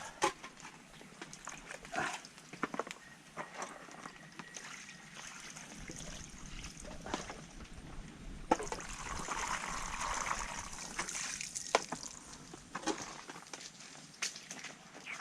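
Water sloshing and trickling, with scattered small clicks and knocks. A louder rush of water comes about halfway through and lasts a few seconds.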